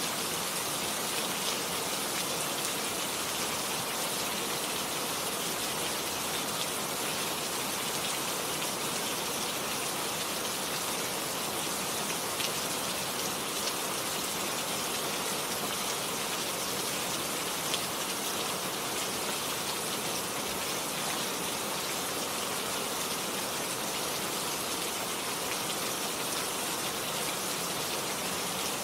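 Steady rain falling, an even hiss of drops with a few faint ticks of individual drops landing.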